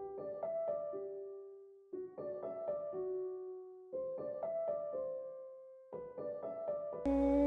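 Solo piano music: a short phrase of a few notes played four times, about every two seconds, each phrase ending on a held note that fades.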